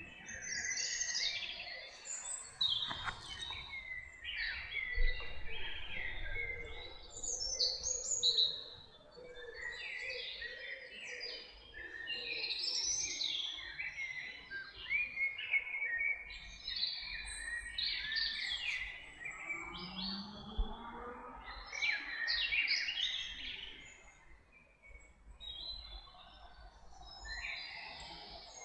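Forest songbirds singing together, many short overlapping phrases following one another with only brief gaps.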